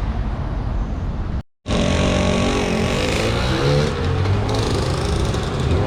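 Street traffic noise, then after a brief cut to silence about a second and a half in, a car engine running close by with its pitch rising and falling as it revs.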